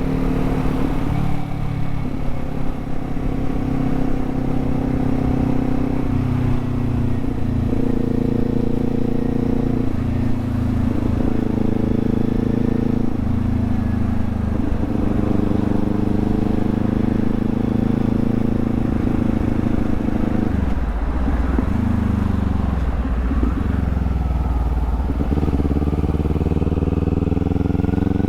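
Kawasaki Z400 parallel-twin engine running while riding, holding steady revs with several brief dips in pitch as the throttle is rolled off or gears change, then revving up near the end.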